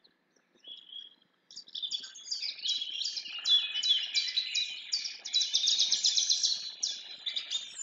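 Birds chirping and singing in quick, overlapping high notes; a faint call near the start, then a busy, continuous chorus from about a second and a half in.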